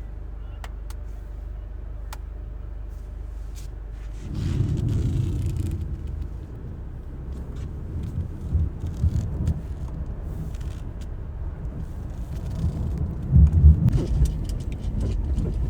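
Car engine and road rumble heard inside the cabin, a steady low rumble that grows louder and rougher about four seconds in, with a few faint clicks.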